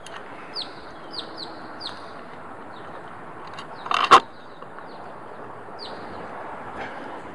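Birds calling: short, high chirps that sweep downward in pitch, several in the first two seconds and a few more later. About four seconds in comes a brief, loud clatter, the loudest sound.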